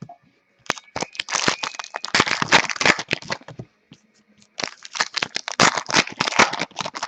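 Trading cards and foil pack wrappers being handled: quick crinkling, rustling and flicking in two stretches with a short pause between them, as cards are pulled from a pack and flipped through.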